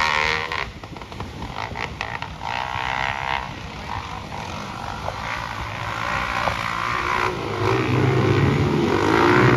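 Dirt-bike engines racing on a motocross track: one bike's high revving fades away early, then engines rise and fall in the distance and grow steadily louder as another bike comes close near the end.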